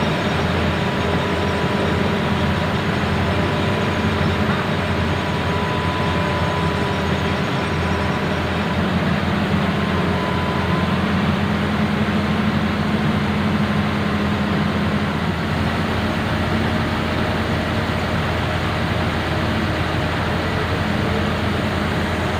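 An engine running steadily, with a faint constant whine over its noise.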